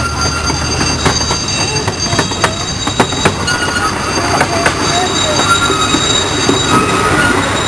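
Miniature park train rolling along its track, the wheels squealing on the rails in several steady high tones over a rolling rumble, with sharp clicks from the wheels on rail joints in the first half.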